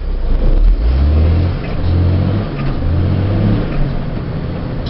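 Box truck's engine heard from inside the cab, accelerating under load; its note comes in three pulls of about a second each with short breaks between them.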